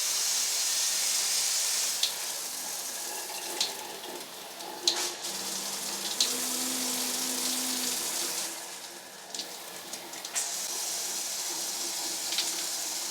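Water spraying from a dual shower head, a steady hiss that drops in level twice as the spray is switched, with a few light clicks.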